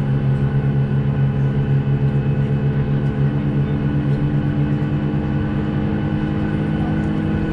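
Steady mechanical drone inside a Boeing 737 passenger cabin, made of several held tones, with a fainter higher tone coming in about three seconds in and slowly rising.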